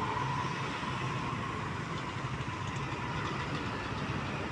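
Diesel truck engine running steadily, with a steady high whine over it that slowly fades.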